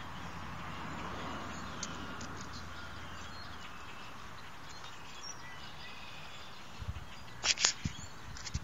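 Outdoor background noise with faint small birds chirping. Near the end come a couple of sharp, loud clicks or knocks.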